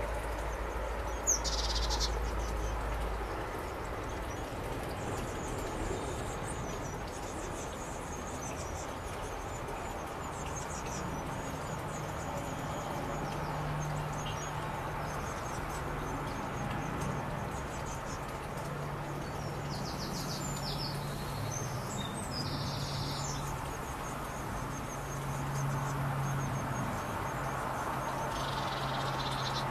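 Small birds giving short, high chirping calls a few times, a cluster of them a little past the middle, over a steady hiss and a low hum.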